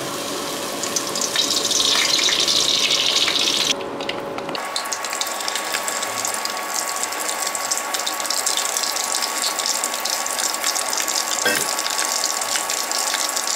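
Meat-stuffed eggplant boxes frying in hot oil in a wok: a dense, steady crackling sizzle, with a brief dip about four seconds in.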